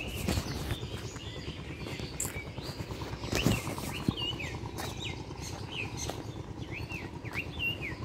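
Small birds chirping, short bent chirps repeated about once a second through the second half. Under them is a steady low rumble and a few knocks, the loudest about halfway through.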